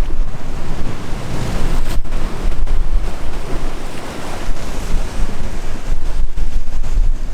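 Waves washing and breaking, with strong wind buffeting the microphone in gusts.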